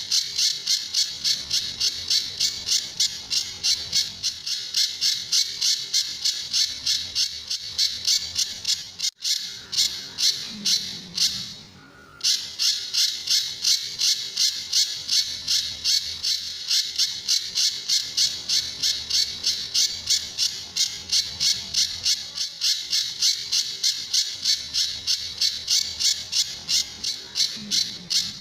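A pijantur bird singing: a long, even run of sharp high notes repeated about three times a second, the rapid 'tembakan' (shooting) song style, with a short pause about eleven seconds in.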